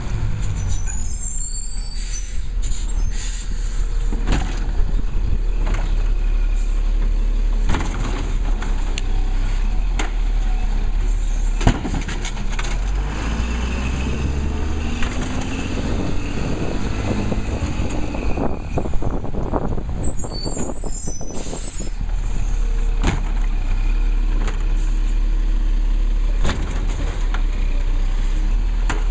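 Labrie Cool Hand garbage truck running, its engine rising in pitch for a few seconds in the middle, with scattered knocks and short air-brake hisses.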